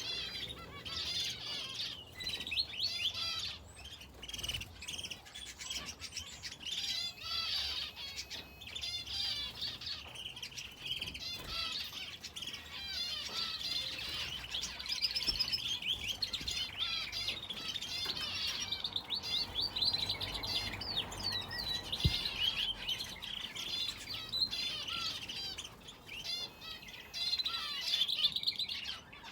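Aviary finches and a canary chirping continuously, many short overlapping calls and trills.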